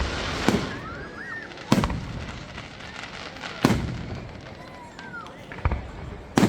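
Fireworks going off: about five separate bangs, one every second or two, over the background noise of other fireworks.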